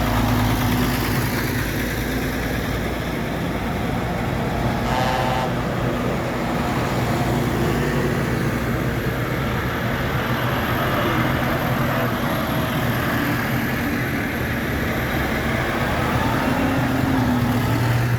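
Tractor engines running steadily as tractors in a road run go by, with a short higher-pitched tone about five seconds in.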